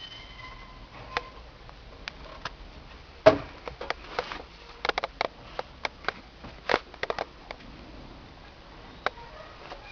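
Irregular sharp clicks and knocks: one loud knock about three seconds in, a cluster of clicks in the middle, and fewer near the end, over a faint low hum.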